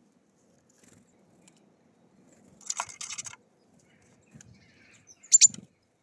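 Small birds working a feeder, taps and scratches of beaks and claws on it: a cluster of scratchy taps near the middle, then two or three sharp, louder clicks near the end.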